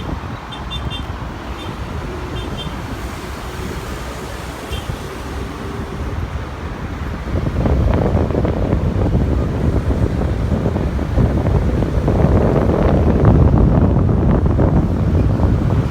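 Aircraft engines rumbling during a takeoff or landing, growing louder about halfway through and again near the end, with wind buffeting the microphone.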